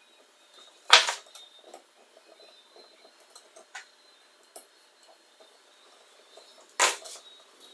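Small hard parts handled and set down on a work surface: two sharp clacks, about a second in and near the end, with light clicks and taps between.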